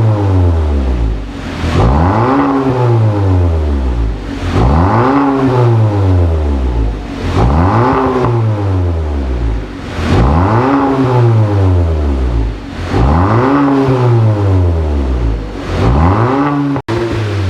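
Kia K5 1.6-litre turbo four-cylinder through an aftermarket dual valved (variable) exhaust, revved up and let fall back about seven times in a steady rhythm, one rev every two and a half seconds or so. The sound cuts out for an instant near the end.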